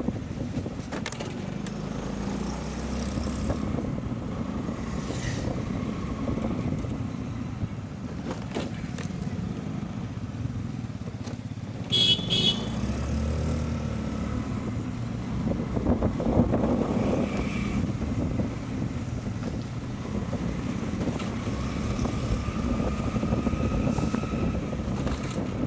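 Motorcycle engine running steadily while riding, a continuous low rumble. About halfway through comes a brief, sharp two-part high beep, the loudest moment.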